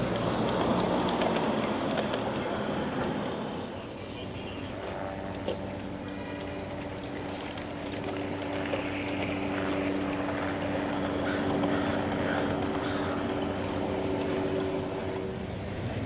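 Large-scale (G gauge) model train running on a garden railway track, with a steady motor hum. A high chirp repeats about twice a second from about four seconds in until near the end.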